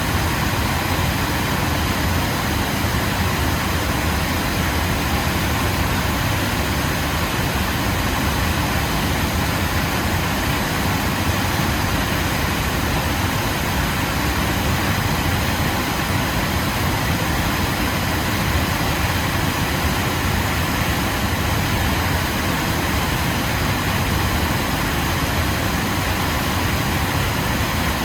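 Waterfall: water falling and rushing in a loud, steady, unbroken roar.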